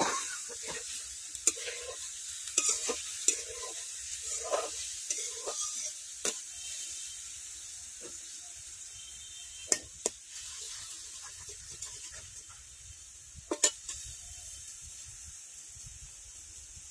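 Onion, garlic, ginger and cumin paste sizzling in hot oil in a metal pot, stirred with a flat metal spatula that scrapes and clicks against the pot. There are a few sharp knocks of the spatula near ten and fourteen seconds in, and the sizzle slowly grows quieter.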